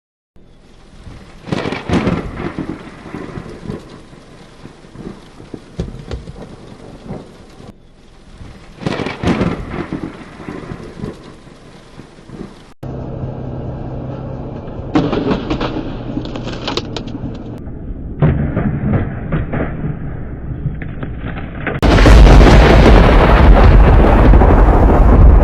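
Thunderstorm: rain with thunder cracks and rumbles, in several short storm recordings cut one after another. About 22 seconds in, a far louder stretch of thunder and rain begins, close to overloading.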